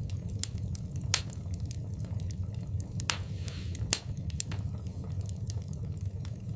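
Wood fire burning in a fireplace: irregular sharp crackles and pops over a steady low rumble, with two louder pops about a second in and about four seconds in and a brief hiss about three seconds in.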